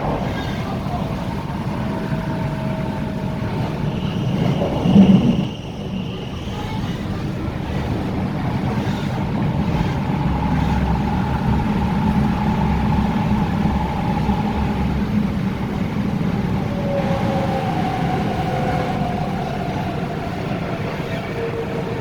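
MTR Tung Chung Line K-stock train (Hyundai Rotem) running on the line: steady wheel and track noise with the traction motors' whine drifting in pitch. A loud short knock about five seconds in, with a brief high squeal around it, and a deeper rumble from about ten seconds in.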